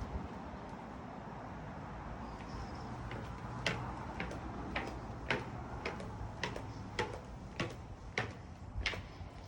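Footsteps of a person walking, about two steps a second, starting a few seconds in, over a steady low hum.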